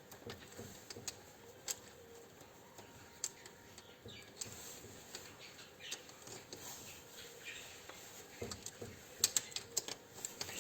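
Faint, scattered clicks and light taps, with a few sharper clicks about nine seconds in.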